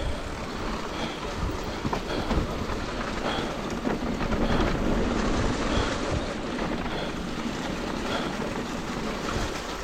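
Trek Rail e-mountain bike rolling downhill over a rough dirt trail: steady tyre and drivetrain rattle with scattered small knocks as the wheels cross roots and ruts, mixed with wind noise on the microphone.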